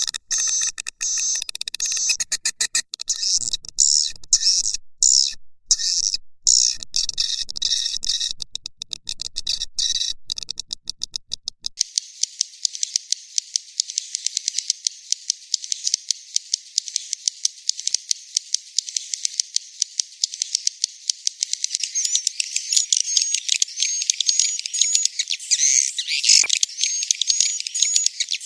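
Swiftlet lure recording played for a swiftlet house: first a buzzing tone broken into rapid pulses, then, from about twelve seconds in, a dense, high-pitched stream of swiftlet twittering and clicking chirps.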